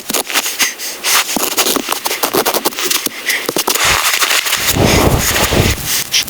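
Wood fire crackling and popping with a dense, irregular run of sharp snaps, and a deeper rustling noise about five seconds in.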